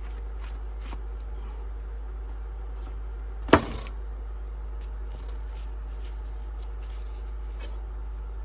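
A single sharp knock about three and a half seconds in, over a steady low hum and faint scattered ticks.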